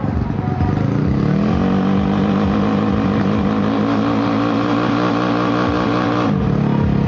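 Drag-racing motorcycle engine revved up and held at high revs while the bike stands on the start line, then dropping back sharply near the end.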